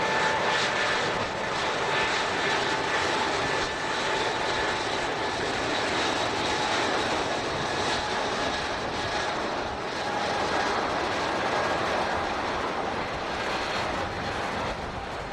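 Passenger airliner's engines running steadily with a rushing noise and a thin high whine, the whine fading about two-thirds of the way through.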